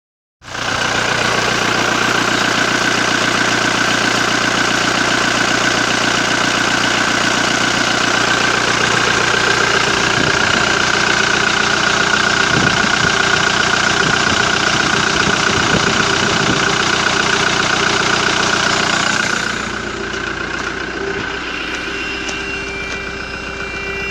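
Toyota HiLux 2.4 L four-cylinder turbo diesel engine idling steadily, with a diesel knock. Near the end it gets somewhat quieter.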